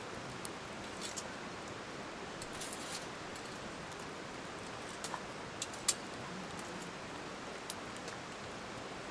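Wood campfire crackling, a steady hiss of burning with scattered sharp pops, the loudest a few pops about six seconds in.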